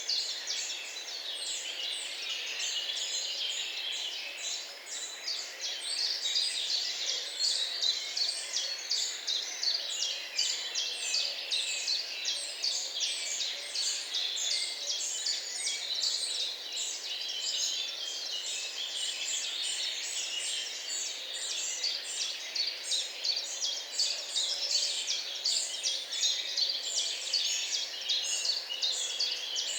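A chorus of many birds singing at once: a dense, unbroken run of short, rapid high chirps and trills.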